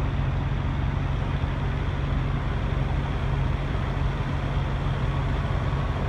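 Steady engine drone and road noise inside a moving vehicle, with a constant low hum and no change throughout.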